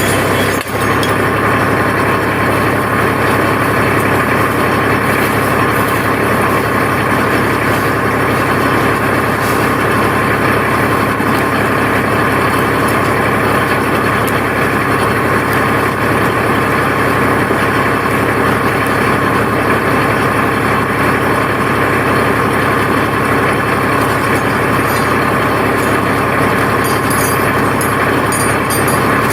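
Tractor engine running at a steady speed throughout.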